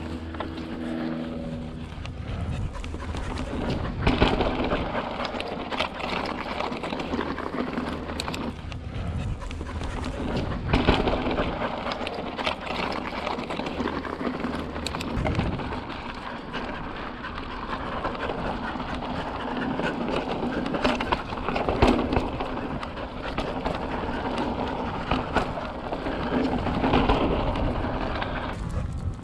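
Wind on the microphone and tyres rolling over slickrock while a mountain bike is ridden, a continuous rushing noise that swells in surges every several seconds.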